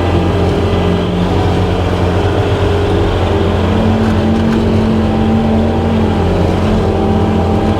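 Skid steer engine running steadily at working speed, driving a brush hog attachment; an extra tone comes in for a couple of seconds midway.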